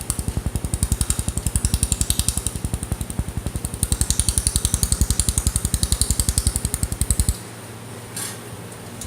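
Pulsed laser welding machine firing a rapid, even train of pulses, about ten a second, each a low thump with a hiss, stopping suddenly about seven seconds in while a steady machine hum carries on.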